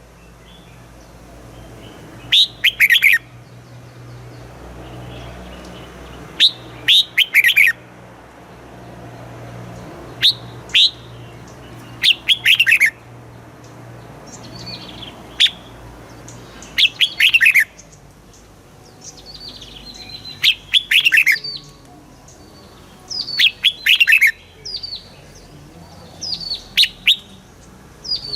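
Red-whiskered bulbul singing: short, bright phrases of quick falling whistled notes, repeated every few seconds. A faint low hum runs underneath.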